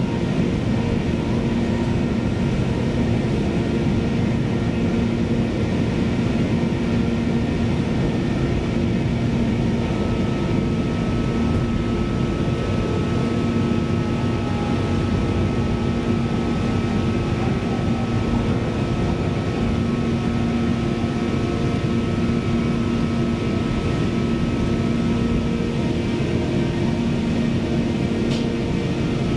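Inside a CAF Class 331 electric multiple unit running at speed: a steady low rumble of the train on the track, with a few steady humming tones over it.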